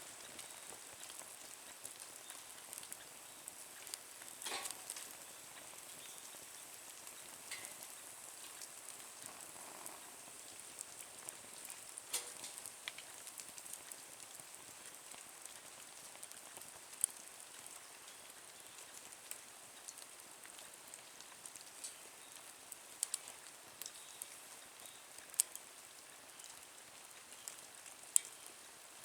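Small wood fire crackling in a nature stove: a soft steady hiss with scattered sharp pops every few seconds.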